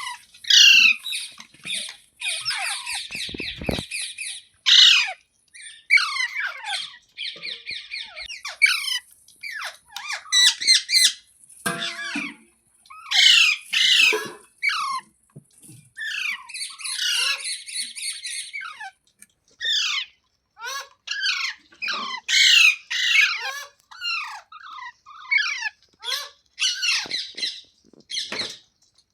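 Ringneck parrot squawking and screeching again and again in short, shrill calls, broken by a few stretches of a second or two of fast chattering notes.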